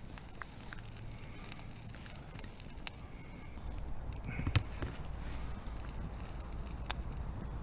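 Wood campfire crackling, with a few sharp pops over a low steady rumble that gets somewhat louder about halfway through, and one soft knock about halfway.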